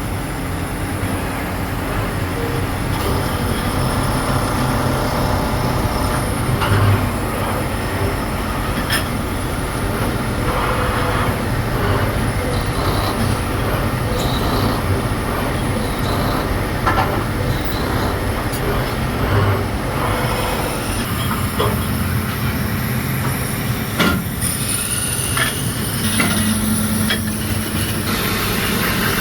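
Metalworking machinery running steadily, with scattered sharp metallic clicks and knocks and some high squealing tones over the din.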